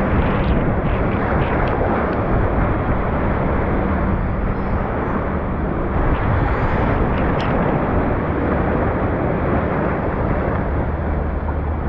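Steady, loud rush of water running down a raft water slide.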